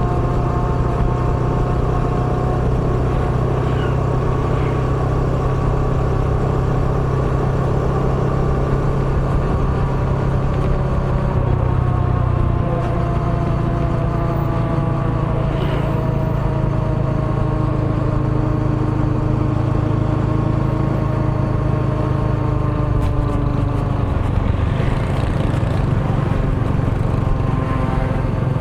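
Small motorbike engine running steadily while riding, its pitch drifting slowly lower through the middle stretch.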